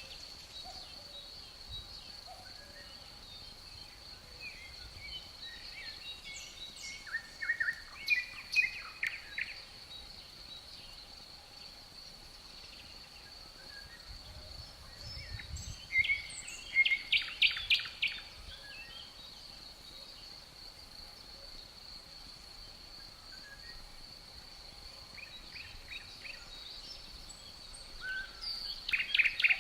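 Songbirds singing in three short bursts of rapid repeated notes, over a steady high-pitched drone.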